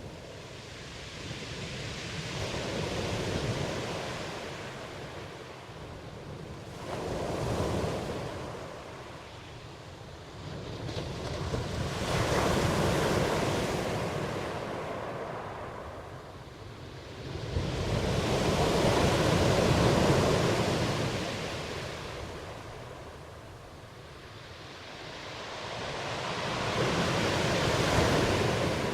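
Ocean waves breaking and washing in, rising and falling in about five slow swells, each building over a few seconds and then fading.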